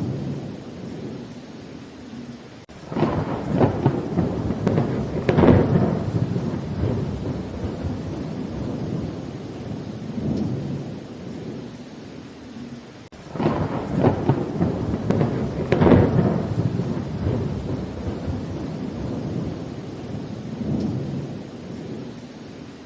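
Thunder rumbling over steady rain: two long rolls about ten seconds apart, each swelling suddenly and slowly fading.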